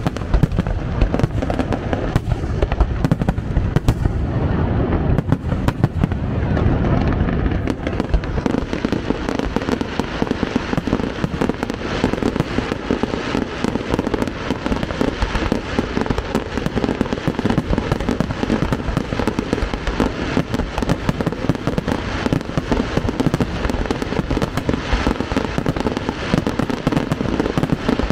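Fireworks display at full barrage: a dense, unbroken run of shell bursts and crackling, bang after bang with no gaps between them.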